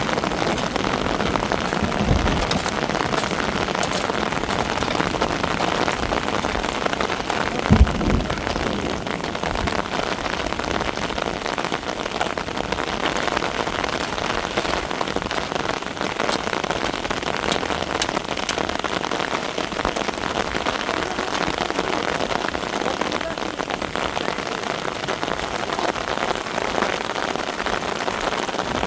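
Steady hiss of rain falling, with two short low thumps, about two and eight seconds in; the second is the loudest sound.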